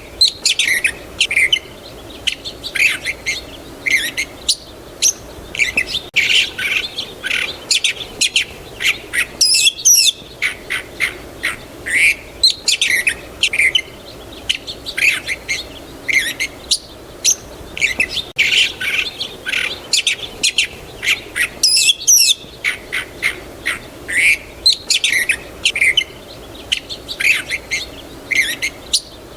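Several small birds chirping and singing in a dense chorus of short, rapid calls, with brief lulls, over a faint steady background hum.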